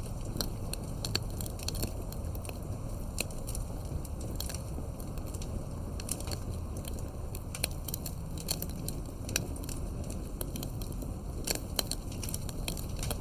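Wood fire burning steadily with irregular sharp crackles and pops over a low rumble of flame.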